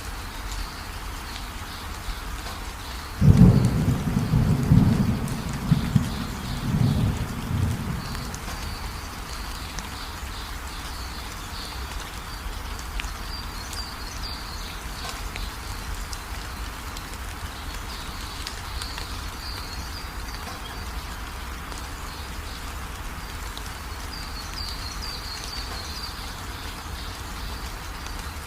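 Steady rain falling, with a roll of thunder rumbling low and loud from about three seconds in until about eight seconds in.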